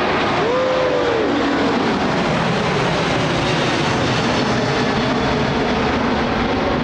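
Airbus A380's four turbofan engines passing low overhead: a loud, steady jet roar with a tone that falls in pitch over the first few seconds.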